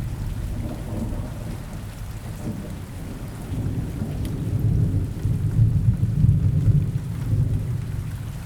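Steady rain falling through a forest, with a low rumble of thunder that swells about halfway through and fades toward the end.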